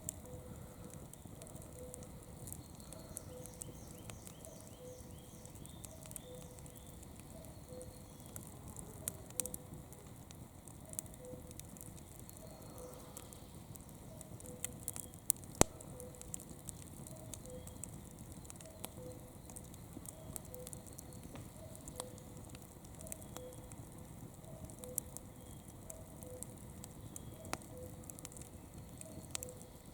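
Campfire burning, the wood crackling with scattered sharp pops and snaps; the loudest snap comes about halfway through. A faint short note repeats steadily about once every second and a half.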